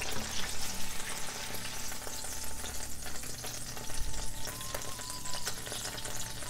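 Chicken burger patty sizzling in shallow oil in a frying pan, with a steady fine crackle.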